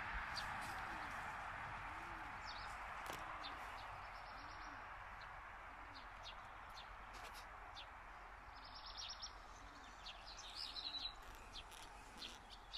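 Faint outdoor ambience: scattered high bird chirps over a steady hiss, with a short burst of busier chirping about two-thirds of the way through.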